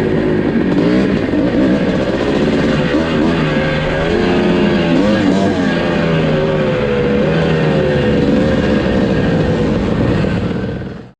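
1982 Husqvarna 430 two-stroke single-cylinder motocross engine being ridden hard, revving up and down as it works through the track, then cut off abruptly near the end.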